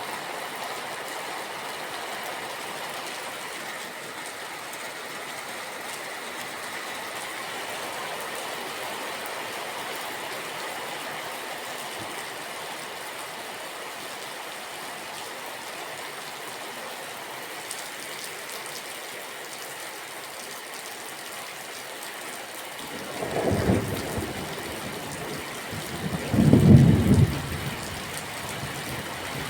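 Steady rain falling as an even hiss, with thunder rumbling twice near the end; the second roll is the louder.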